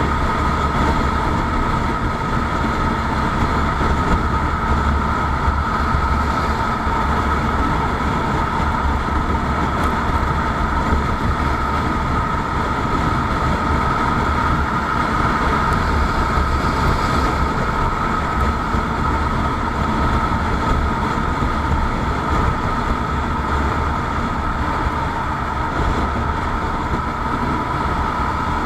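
Steady running noise of a vehicle in motion: a low rumble under a constant drone, unchanging throughout.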